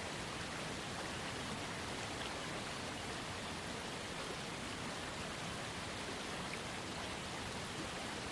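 Small waterfall on a trickling creek, water splashing and pouring in a steady, even rush with no change.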